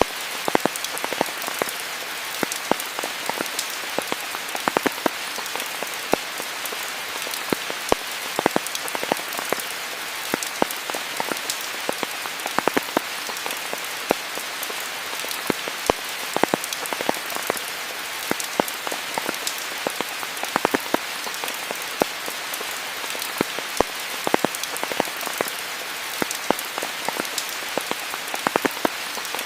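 Steady rainfall: an even hiss with many sharp, irregular strikes of single drops landing throughout.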